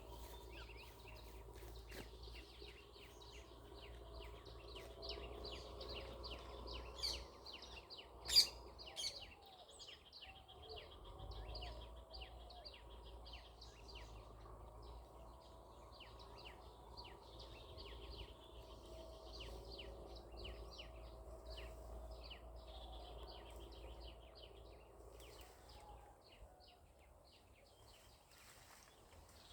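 Birds chirping in quick, repeated short notes, over a faint steady low hum, with one sharp click about eight seconds in.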